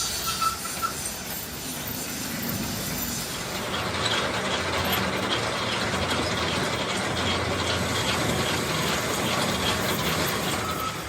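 Metalworking machinery running in a machine shop during crankshaft machining: a steady mechanical clatter, with a fast, even ticking rhythm coming in about four seconds in.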